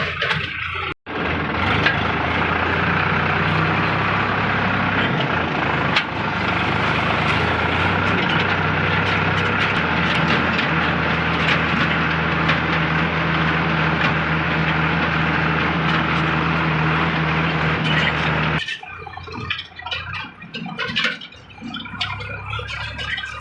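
Sonalika DI 740 III tractor's diesel engine running steadily while hauling a fully loaded trolley, with a brief break about a second in. Near the end the steady engine note gives way to a quieter, uneven sound.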